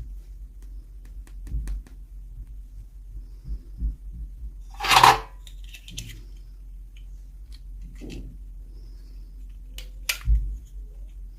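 Small plastic doll parts and packaging being handled: scattered light clicks and taps, a louder brief snap or crinkle about five seconds in and a sharp click near the end, over a low steady hum.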